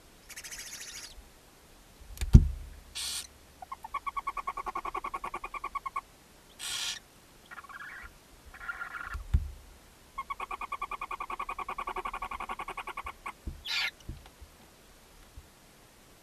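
Barn owls in a nest box: several short rasping hisses, the begging screeches of barn owlets, and two runs of rapid chittering trills a couple of seconds each. Two dull thumps against the box, the first about two seconds in and the loudest sound.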